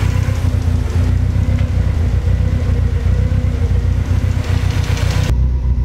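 Turbocharged Toyota 4A-GZE four-cylinder engine idling on a warm-up, with a tapping noise that the owner takes as a sign that something is wrong inside the engine. Near the end the higher hiss cuts off suddenly while the low engine sound carries on.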